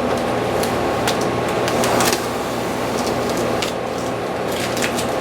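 Steady machine hum in the background, with scattered light crackles and ticks as masking tape and the stencil's paper backing are peeled and handled.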